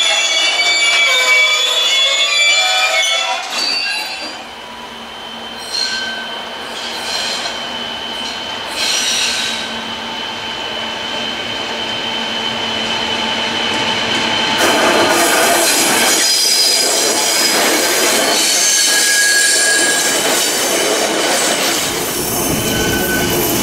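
Freight wagons rolling slowly over the station tracks, their wheels squealing on the rails in shifting high tones, with further squeals and then a steady high whine. From about the middle, the fuller running sound of the train's diesel locomotives joins in.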